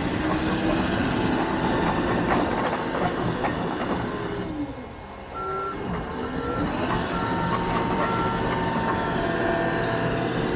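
Heavy-equipment diesel engine running. Its pitch sags and drops in level about halfway through, then climbs back. A backup alarm beeps at an even pace, about one and a half beeps a second, through the second half.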